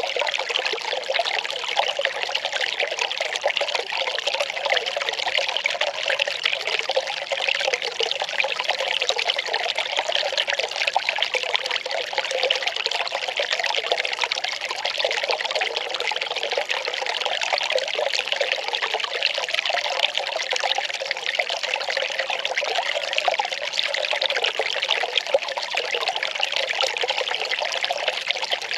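Well water running in a steady, unbroken trickle.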